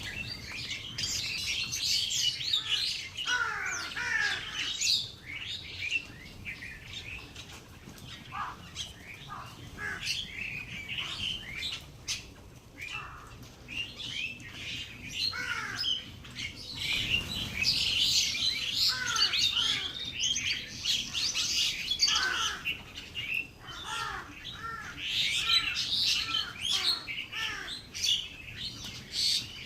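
A flock of small birds chirping and calling continuously, many short overlapping notes at once, with runs of quick curved, falling chirps.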